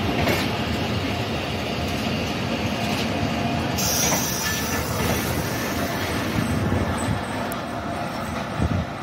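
Passenger train running along the track, a steady rumble of wheels on rails, with a thin high squeal coming in about four seconds in.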